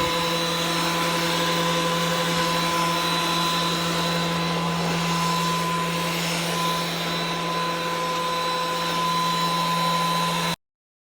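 An electric motor runs steadily at constant speed, a loud even hiss with a steady hum, typical of a shop vacuum or power tool. It cuts off abruptly near the end.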